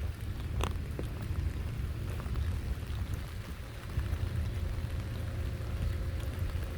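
Rain falling, with scattered sharp drop ticks over an even hiss, one louder tick about two thirds of a second in, and a steady low rumble underneath.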